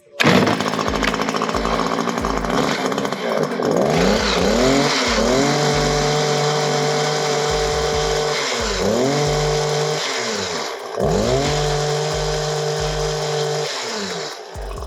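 Stihl HS82 hedge trimmer's two-stroke engine running after its carburetor replacement. It is revved up to high speed and held there, then let back down, three times over.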